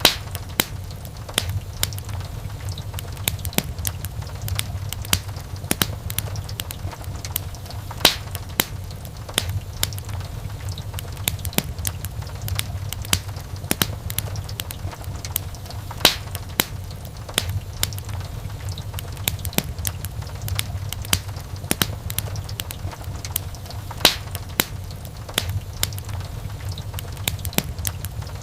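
Wood fire crackling in a fireplace: a dense scatter of small pops and snaps over a steady low rumble, with a louder snap about every eight seconds.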